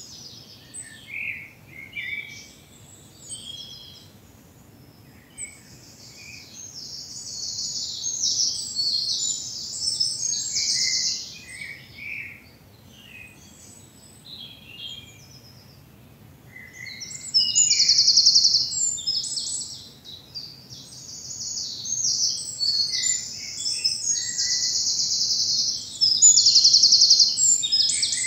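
Woodland songbirds singing in spring: loud, rapid, high trilling phrases of a second or two, repeated several times, with shorter, softer chirps from other birds in between. A faint low background rumble runs underneath.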